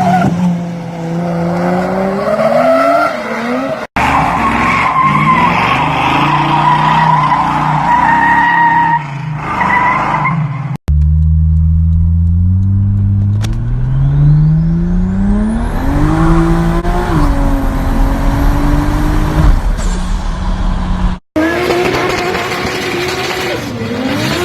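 Turbocharged Toyota Supra engines revving and pulling hard in several short clips cut back to back, each cut a sudden dropout. In the longest, a little past the middle, the engine pitch climbs steadily under acceleration while a high turbo whine rises with it and then holds, cutting off near the end.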